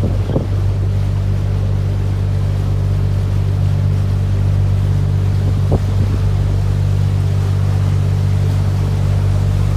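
Canal tour boat's motor running steadily, a low, even hum, with a couple of faint knocks.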